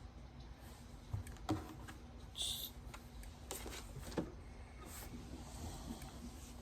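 Faint scattered taps and a brief rustle about two and a half seconds in, from fabric quilt pieces being handled and laid out.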